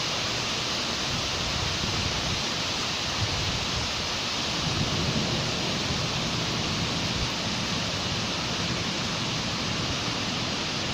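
Steady rain falling in a city street, an even hiss, with a low rumble of traffic underneath that swells slightly about five seconds in.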